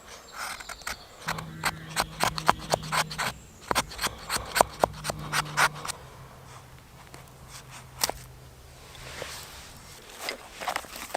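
Scraping and rustling with many sharp clicks and snaps, as of sticks and kindling being handled, busiest in the first half. A faint steady low hum runs underneath.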